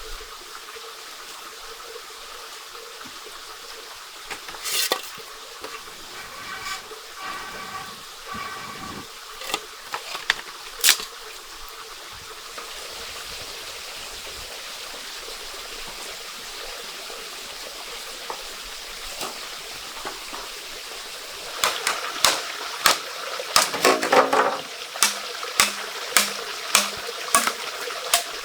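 Steady trickling water with scattered sharp knocks and clicks. A short repeated pitched call comes about seven seconds in. A quick run of sharp knocks and clicks comes in the last several seconds.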